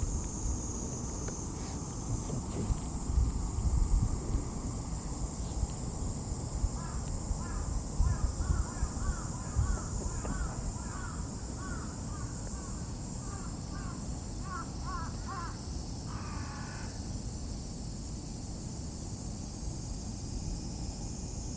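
Crows cawing in a run of short, repeated calls through the middle of the stretch, over a steady high insect buzz. Low rumbles come and go in the first half and are the loudest thing heard.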